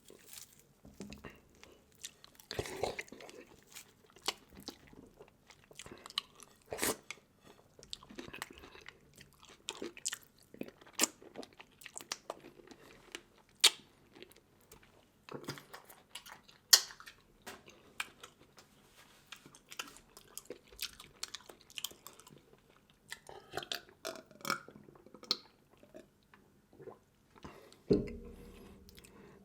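Close-up chewing, biting and crunching of seafood, with frequent sharp cracks and clicks scattered throughout. A louder, low dull sound comes about a second before the end.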